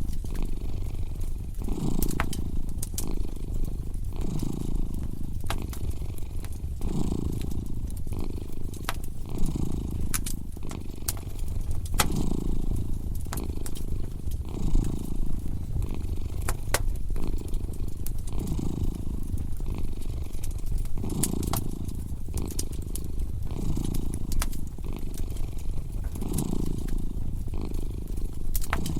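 A cat purring steadily, swelling and easing with each breath about every second and a half. Over it a wood fire crackles with scattered sharp pops.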